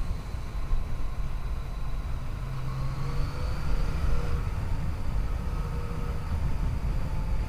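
Yamaha FJ-09's three-cylinder engine running while riding, under heavy low wind rush on the microphone. The engine note rises a little about halfway through.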